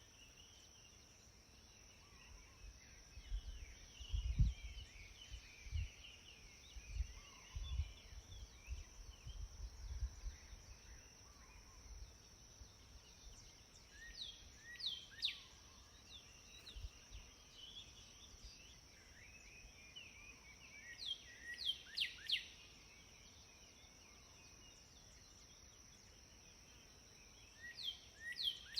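Outdoor birdsong: light chirping throughout, with sharp down-slurred whistled notes in quick runs of three or four, heard three times, over a steady high insect-like drone. Low rumbles, like wind on the microphone, come and go in the first third.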